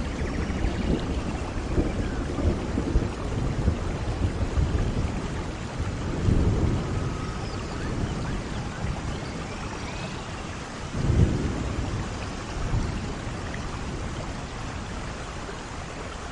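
Steady rain falling on foliage, with low rumbles of thunder swelling about six and eleven seconds in.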